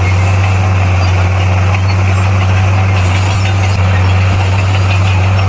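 Heavy diesel engine of a bulldozer running at a steady speed: a loud, constant low drone.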